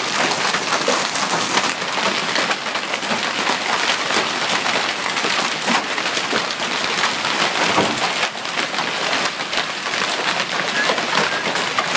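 Heavy hail falling with rain: a dense, steady clatter of countless hailstones striking.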